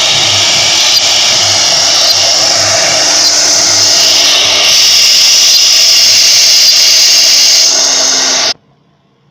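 CNC router spindle machining MDF, a loud steady whir that cuts off abruptly about eight and a half seconds in.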